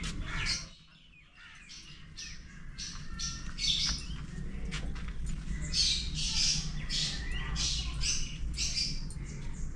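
Birds chirping and squawking in many short, irregular high calls.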